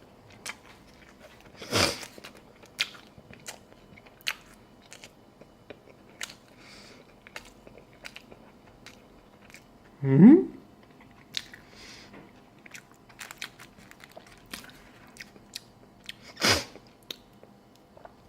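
A man chewing a mouthful of McDonald's spicy chicken burger, with many small wet clicks and crunches and two louder crunches, one near the start and one near the end. About ten seconds in he gives a short rising hum.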